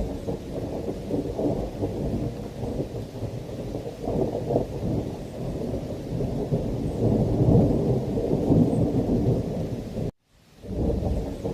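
Thunder rumbling over steady heavy rain, the rumble swelling about two-thirds of the way through. Near the end the sound cuts out to silence for a moment, then returns.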